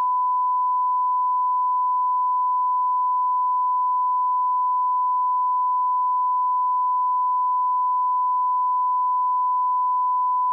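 Steady 1 kHz sine-wave line-up tone at −18 dBFS, the alignment reference level used for calibrating audio levels.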